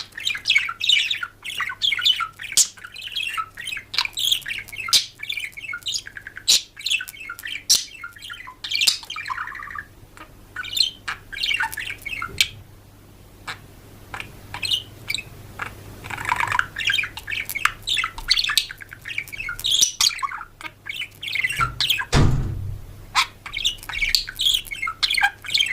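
Many birds chirping and squawking in a dense chatter of short calls, with one low thump about twenty-two seconds in.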